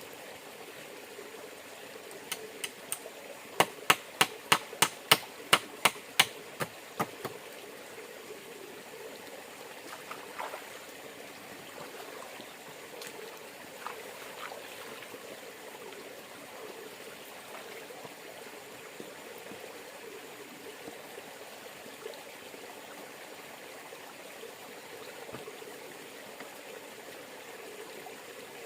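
A river running steadily, with a quick run of about a dozen sharp knocks, about three a second, a few seconds in.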